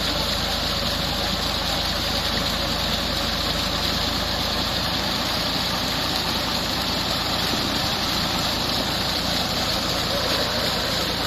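Tractor engine running steadily, driving a tubewell pump, with a constant rushing hiss over its low drone.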